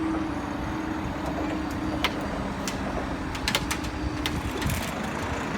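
Hydraulic level crossing barriers rising: a steady hum from the barrier mechanism that stops about four and a half seconds in, over road traffic noise, with a few sharp clicks.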